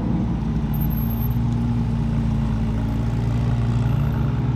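A car engine running slowly at low revs, a steady low rumble as it rolls in.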